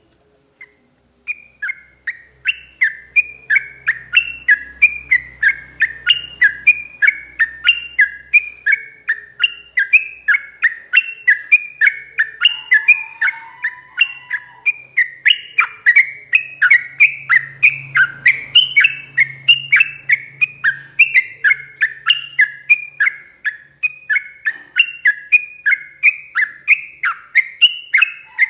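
Yellow-vented bulbul (trucuk) singing a long, unbroken run of loud, quick falling chirps, about three a second, starting about a second in. This is the long rapid-fire song kept as a training recording for caged birds.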